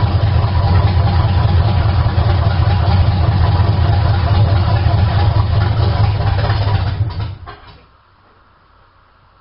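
Engine of a 1972 Chevy pickup idling steadily, then switched off about seven seconds in, the sound dying away over roughly half a second to near quiet.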